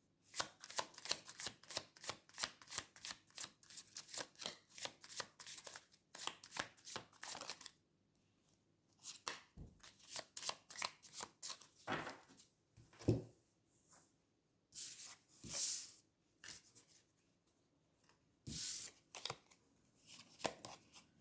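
Tarot cards being shuffled by hand, a rapid run of card flicks for the first several seconds, then scattered separate card rustles and taps as cards are handled and drawn.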